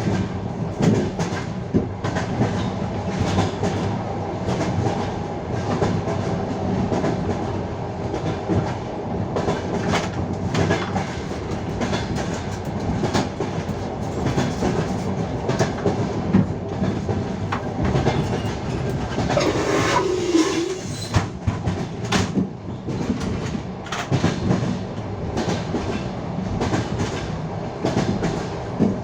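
Passenger train's wheels clattering over rail joints, a steady clickety-clack over the running rumble, heard from aboard the moving carriage.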